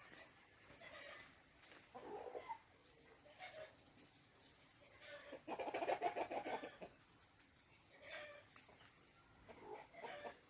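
Chickens clucking in short calls, with one louder, longer call about halfway through.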